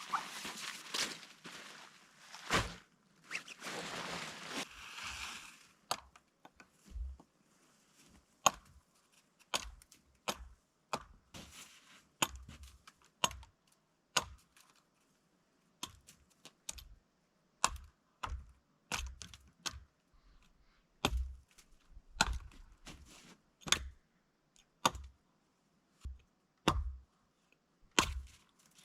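A long series of sharp knocks or cracks, irregular at roughly one a second, after a few seconds of rustling.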